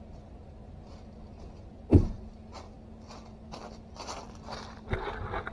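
A single heavy thud about two seconds in, then a run of footsteps with crunching and rustling and a second, lighter thud near the end, over a low steady hum.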